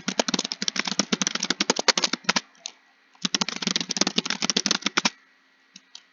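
Fast typing on a computer keyboard: two quick runs of keystrokes with a short pause between them, then a couple of single key taps near the end.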